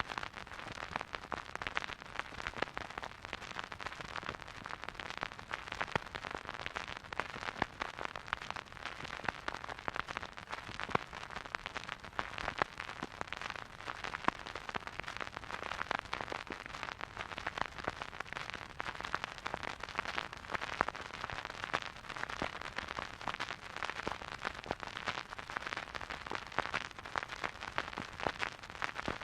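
Vinyl record surface noise from a silent groove: a steady hiss full of small crackles and pops.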